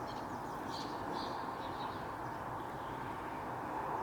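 Small garden birds chirping faintly, a few quick high calls in the first second and a half, over a steady background hiss.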